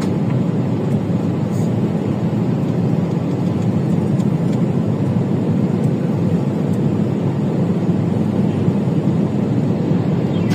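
Steady low rumble of a vehicle on the move, holding an even level with no change in pitch.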